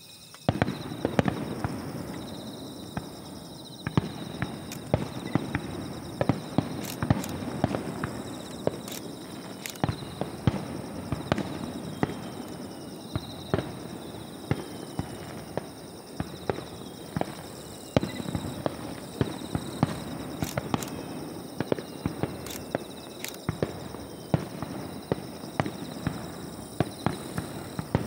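Fireworks display: aerial shells bursting in one sharp bang after another, with a continuous crackle between the bangs.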